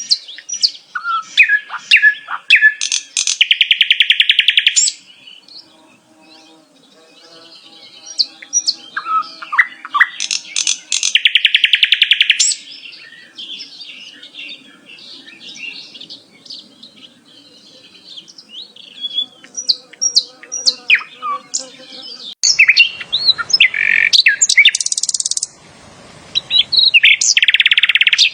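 A small songbird singing a long, varied song of quick chirps, whistles and short trills. It is broken four times by loud buzzing rattles, each about two seconds long.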